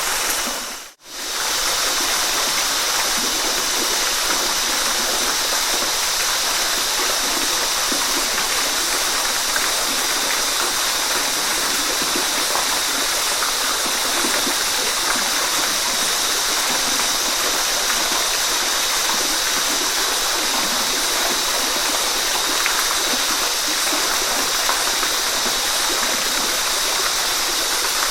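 Steady rushing water of a waterfall, an even hiss-like rush with no separate splashes. About a second in, the sound drops out almost to silence for a moment and comes straight back.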